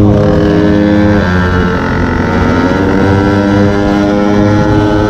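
Small two-stroke engine of a gas-powered stand-up scooter running at high revs. Its note drops about a second in, then climbs steadily again as it picks back up.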